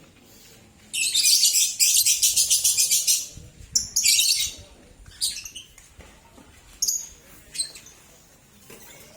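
Lovebirds calling: a burst of rapid, shrill chattering about a second in that lasts some two seconds, then a handful of short, sharp calls.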